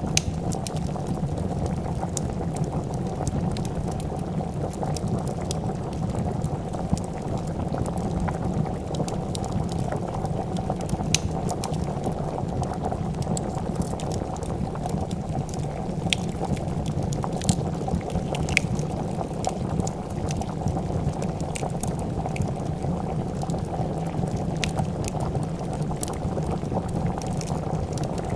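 Pot of soup at a steady rolling boil, bubbling continuously, with scattered sharp pops and crackles of a wood fire.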